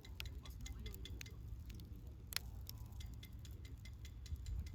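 Wood fire crackling: irregular sharp pops and ticks, with one louder pop a little over two seconds in, over a low steady rumble.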